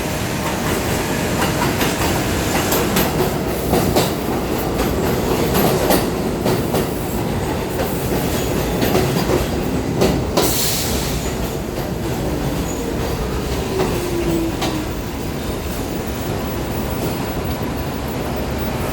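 New York City subway train running through the station: a steady rumble with the wheels clicking over rail joints. A short hiss comes about ten seconds in, and a tone falls in pitch a little later.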